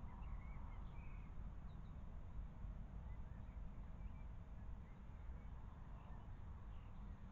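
Faint wild birds chirping, short scattered calls over a steady low rumble of background noise.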